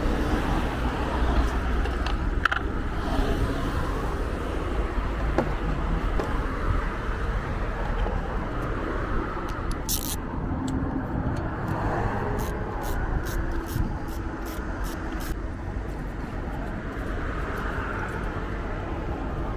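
Steady engine and road noise inside a moving car. About halfway through, a turn-signal indicator ticks evenly, about twice a second, for several seconds.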